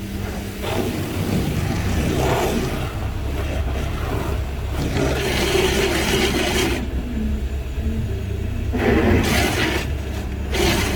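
Car wash machinery running: repeated surges of spraying and scrubbing over a steady low rumble.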